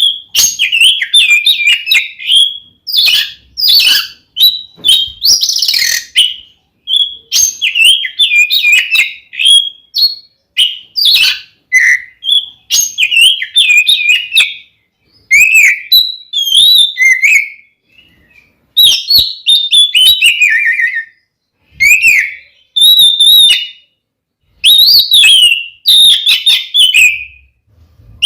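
Kacer (magpie-robin) singing in a loud, fast run of varied whistled phrases and chirps, broken by short pauses, in the aggressive full song that keepers use to rouse other males to fight.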